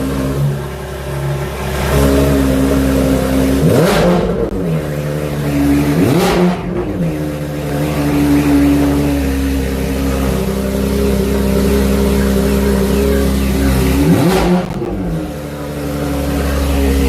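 Porsche 911 GT3 RS's flat-six idling high while still warming up after a cold start, blipped three times: quick revs that rise and fall about four, six and fourteen seconds in.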